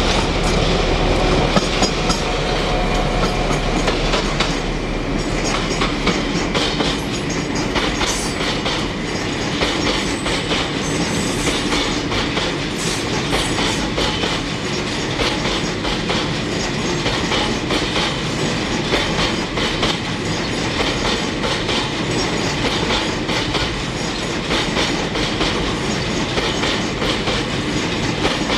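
A train running along the track close by, its wheels clattering steadily over the rail joints.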